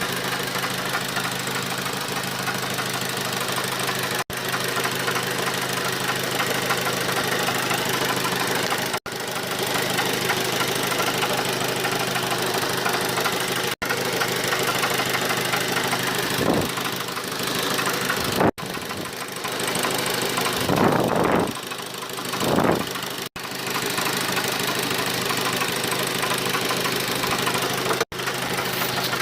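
Engine running at idle with an extraneous knocking noise. The sound cuts out briefly every few seconds, and there are two louder swells past the middle.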